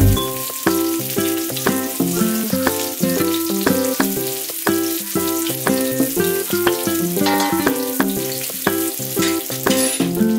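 Onions and garlic sizzling as they fry in a wok, under background music that plays a steady run of short, sharply struck notes, several a second.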